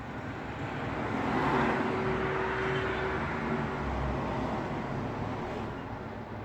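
Road traffic noise as a car passes by: tyre and engine noise swells to a peak about one and a half seconds in, then fades away slowly over the next few seconds.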